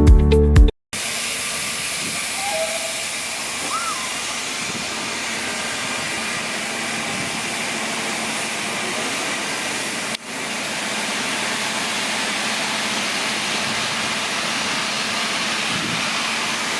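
Steady hiss of escaping steam from a steam locomotive, with one brief drop about ten seconds in.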